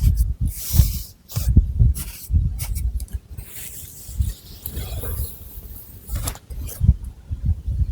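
Long fingernails scratching through thick long hair and over the scalp in irregular strokes, each a dull rub with a scratchy hiss, with one longer drawn-out scratch in the middle.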